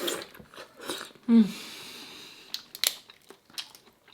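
Crab shell being cracked and pulled apart by hand, with crinkling and crunching and a few sharp cracks. A short, low 'mm' falls in pitch about a second in.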